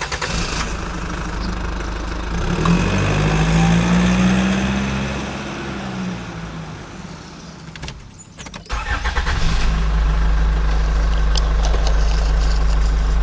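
An engine sound: the pitch rises and then falls back over a few seconds, drops out briefly, and then the engine runs steadily at idle.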